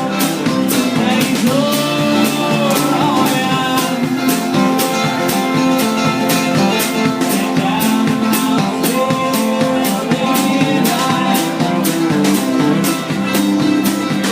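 Live band playing an instrumental stretch of a bluegrass-rock song: guitar over a steady drum beat, with a lead line that slides up and down in pitch.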